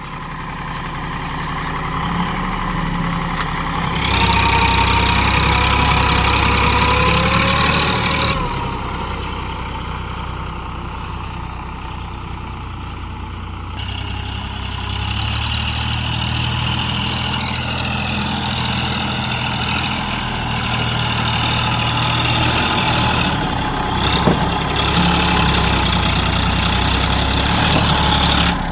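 Sonalika DI 734 tractor's diesel engine straining under load while stuck, revving up twice with a lower lull between. There is a single sharp knock near the end.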